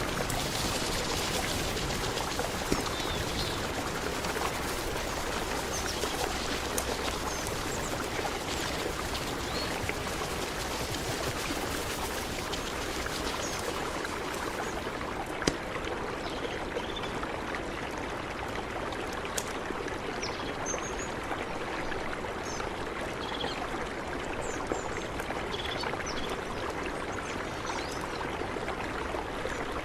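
Mountain river flowing, a steady rushing of water, with a few sharp clicks and, in the second half, some faint short high chirps.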